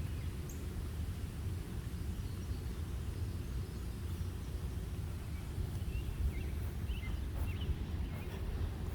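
Outdoor riverside ambience: a steady low rumble, with a few faint short high chirps about six to eight seconds in.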